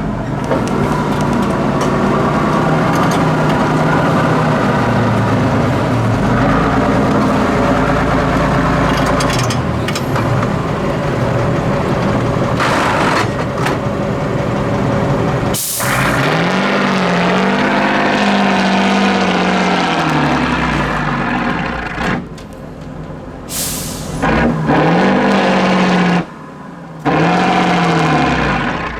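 Heavy off-road trial truck's diesel engine working hard, revving up and falling back several times, with a few short sharp air hisses typical of air brake releases.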